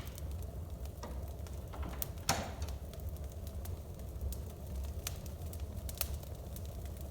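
Wood fire crackling in a fireplace: scattered sharp snaps and pops, one louder pop a little after two seconds in, over a low steady rumble.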